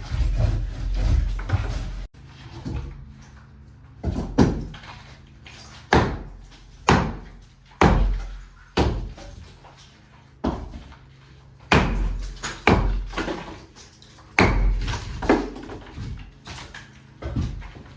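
A series of loud, sharp bangs and knocks at uneven spacing, roughly one a second, each dying away briefly.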